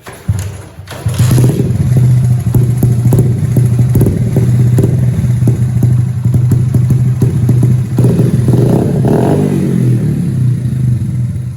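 Cafe-racer motorcycle engine breathing through a newly fitted aftermarket silencer. It comes in about a second in, then runs steadily and loudly with a dense, even exhaust beat, and is briefly revved near the end.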